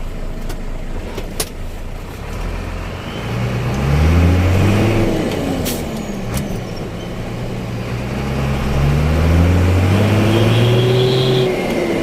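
Motorcycle engine through a knalpot cung free-flow racing exhaust, being revved up and let back down twice, the second rev held longer at the top.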